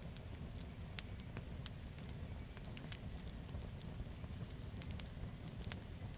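Campfire burning, the wood crackling with frequent sharp pops at irregular intervals over a low steady rumble.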